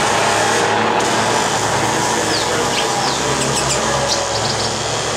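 Steady rush and hum of city traffic, with a few short, falling bird chirps and a quick run of high clicking notes past the middle.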